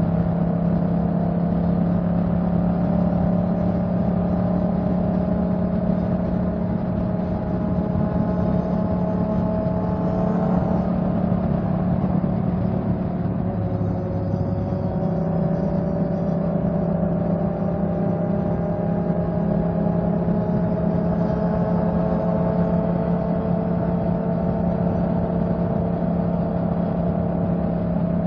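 Motorcycle engine running steadily while riding, its note drifting slowly up and down with speed.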